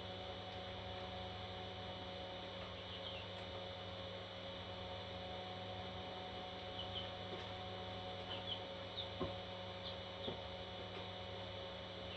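Faint short chirps from baby parrot chicks, scattered from about three seconds in, over a steady electrical hum.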